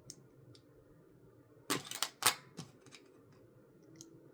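Plastic building-block pieces clicking: a quick cluster of sharp clicks about two seconds in, with a few lighter ticks before and after.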